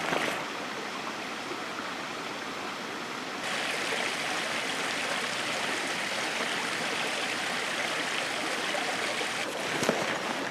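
Steady winter rain falling, an even hiss with no rhythm; a little over three seconds in it becomes louder and brighter.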